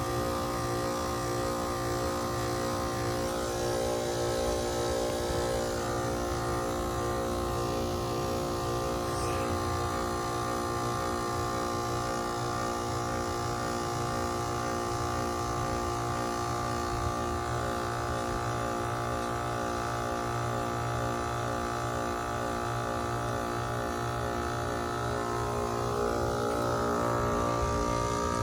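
2002 Lennox Merit Series heat pump outdoor unit running in its defrost cycle: a steady loud hum made of many steady tones. Near the end one higher tone rises and the sound grows slightly louder.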